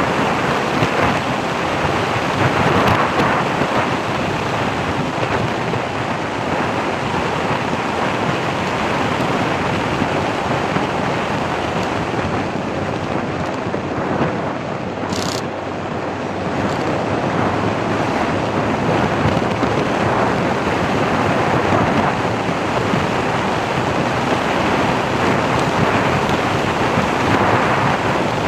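Steady rushing wind and road noise from a moving vehicle, with one brief tick about halfway through.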